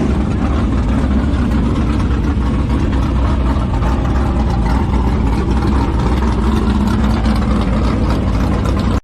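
A large engine running steadily at a constant speed, cutting off suddenly at the end.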